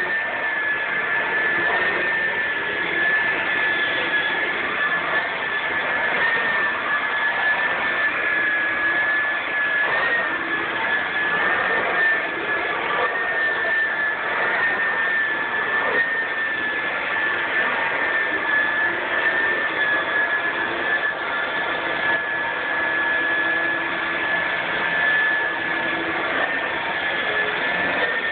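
Vacuum cleaner running steadily: a high motor whine over a rushing hiss of air, its pitch wavering slightly now and then as it is pushed over the floor.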